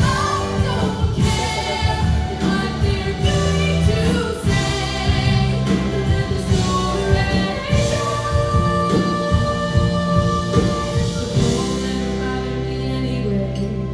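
Live stage show music: a band playing with several voices singing together, between songs of a pop and rock medley.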